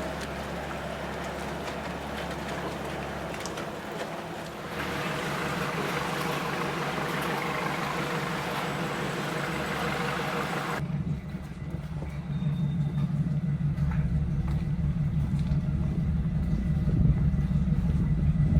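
A vehicle's engine running steadily with a low drone and some hiss. About eleven seconds in the sound changes abruptly: the hiss drops away and the engine drone grows louder.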